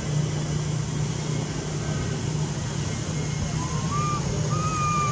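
Steady low engine-like hum with an even hiss, with two short, thin high calls from a little past halfway to the end.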